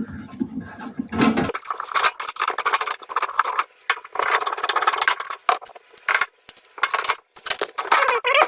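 Screwdriver and metal parts being worked on a gas heater's casing: a quick run of small clicks, scrapes and rattles.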